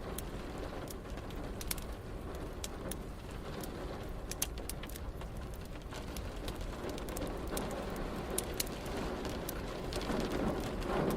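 Wood fire crackling, with many sharp pops, over a steady hiss of rain. A low rumble swells near the end.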